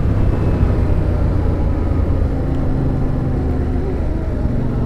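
Motorcycle engine running steadily under way, mixed with wind rushing over the microphone.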